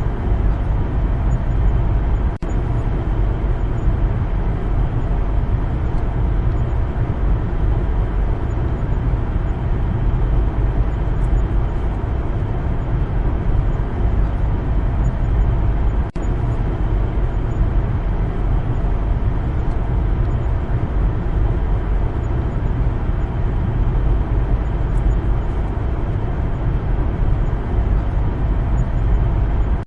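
Steady low rumble of a car driving along a road, tyre and engine noise, broken twice by a very short drop in the sound, about two seconds in and about halfway through.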